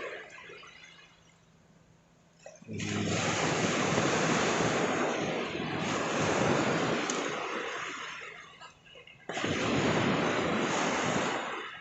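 Sea waves washing in on the shore: two surges of rushing water, each starting suddenly and then fading, the first about six seconds long and the second shorter, near the end.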